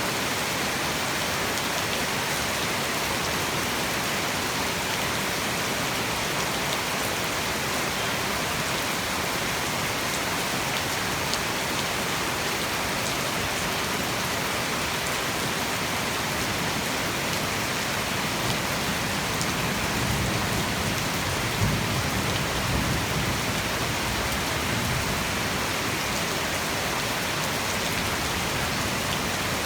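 Heavy tropical rain pouring steadily in a dense, even hiss. About two-thirds of the way through, a low rumble swells under it and fades again.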